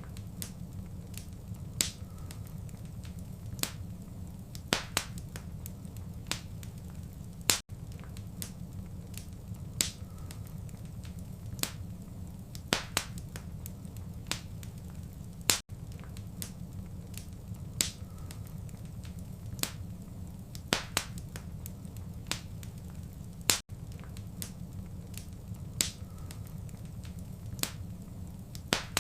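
Wood fire crackling, with sharp pops scattered over a steady low rumble. The same stretch repeats about every eight seconds, with a brief dropout at each join.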